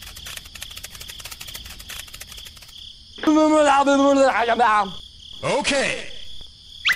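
Crickets chirping: a dense, rapid ticking with a steady high whine underneath. Partway through, a voice comes in with a short burst of babble, then says 'okay'.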